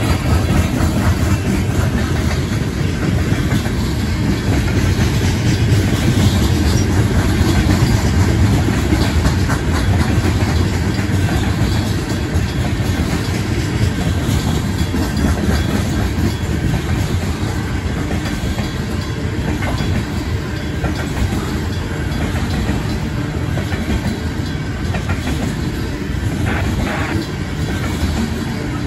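Coal train cars rolling past at a slow pace: a steady heavy rumble with the clickety-clack of wheels over the rail joints.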